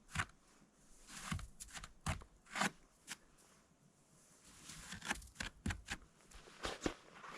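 Fresh snow being brushed and scooped off a trash can lid by hand: irregular, faint crunching swishes with a few sharp scrapes, coming more often in the second half.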